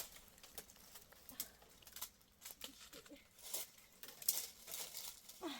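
Sporadic faint crackles and rustles, with two brief faint pitched calls, one about three seconds in and one near the end.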